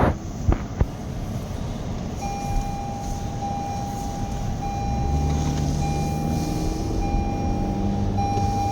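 Car's seat belt warning chime, starting about two seconds in as a steady high tone that breaks briefly about every second: a seat belt is unfastened. Under it the car's engine runs with a low cabin rumble, and there are two sharp clicks near the start.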